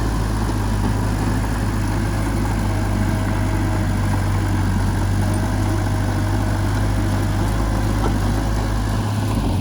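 Heavy-equipment diesel engine idling steadily, a deep even rumble with no revving.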